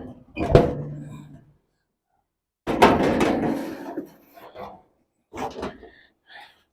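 Knocks, clunks and scraping of heavy metal parts being handled as a Lincoln 260 welder is taken apart. A sharp knock about half a second in, a longer scraping clatter around three seconds, and a few smaller knocks near the end, with the sound dropping out to dead silence in between.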